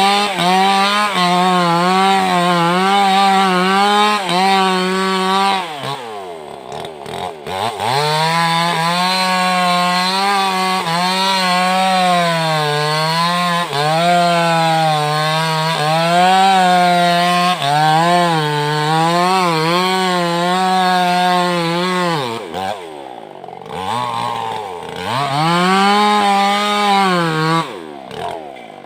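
Two-stroke Maestro chainsaw with a Stihl chain cutting wood at high revs, its engine pitch wavering under the load of the cut. About six seconds in it drops back and revs up again, dips twice more later on, and falls away near the end.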